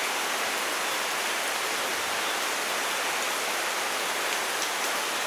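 Steady heavy rain falling, an even hiss with faint drop ticks and no thunder.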